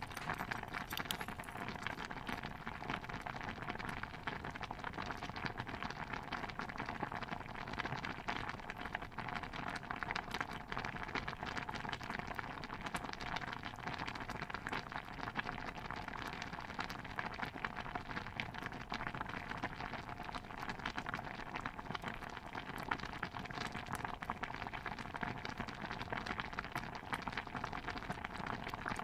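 Pot of stew bubbling steadily: a dense, even patter of small pops and crackles that never lets up.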